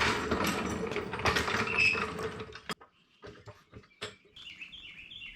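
Gland nut of an excavator's hydraulic cylinder being turned on its threads: a dense metal-on-metal grinding and scraping for nearly three seconds, then a few light clicks. The gland moves easily now that it has been broken loose.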